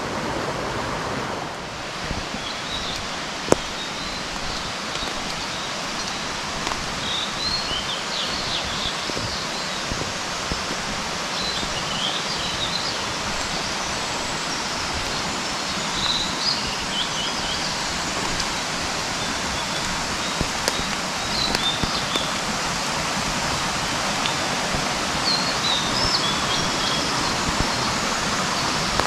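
Mountain stream running steadily, with small birds chirping now and then above it. A single sharp click a few seconds in.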